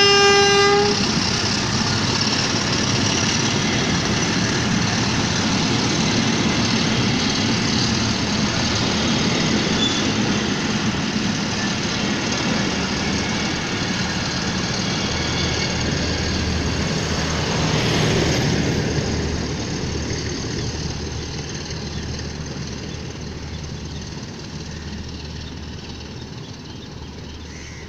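Passenger train behind an HBU-20 diesel locomotive pulling out: the locomotive's horn cuts off about a second in, then a steady rumble of the train rolling past, fading over the last several seconds as it moves away.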